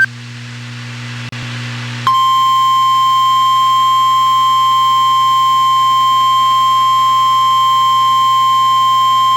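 NOAA Weather Radio alert: about two seconds of receiver hiss, then the loud, steady single-pitch warning alarm tone (the 1050 Hz alert tone) comes on and holds, the signal that a warning such as a tornado warning is about to be read.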